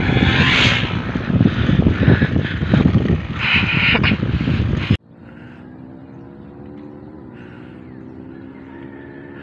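Wind rumbling heavily on the microphone while riding, cut off abruptly about five seconds in. A much quieter steady hum of a motor follows, with a few held pitches that bend slightly twice.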